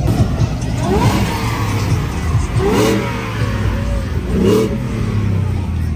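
Car engine revving in three short blips, about a second in, near the middle and again a little later, each rising and falling in pitch.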